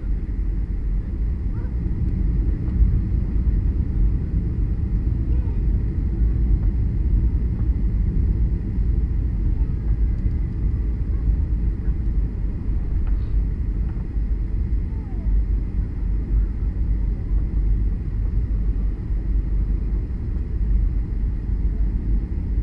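Boeing 737 cabin noise heard from a window seat: a steady low rumble of the engines and airflow, with no sudden change.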